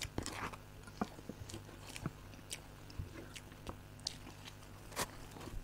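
People eating chocolate cake: chewing with soft, irregular mouth smacks and small clicks, a louder one about five seconds in.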